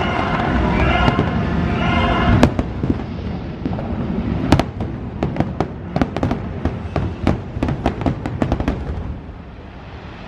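Fireworks going off: a couple of loud bangs, then a rapid volley of crackling reports that thins out near the end.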